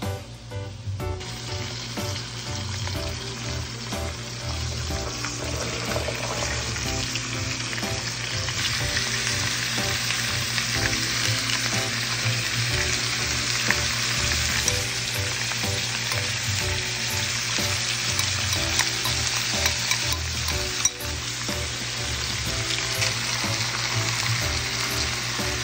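Beef and carrots frying in a pot on a gas stove, a steady sizzle that sets in about a second in, with faint background music underneath.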